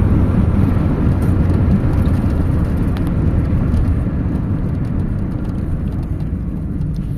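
A car driving along the road: a steady, loud rush of road and wind noise with a low rumble.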